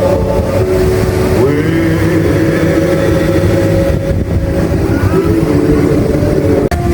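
Jet ski engine running hard at high revs, as when driving a flyboard, its pitch sliding up and down about one and a half seconds in and again near five seconds.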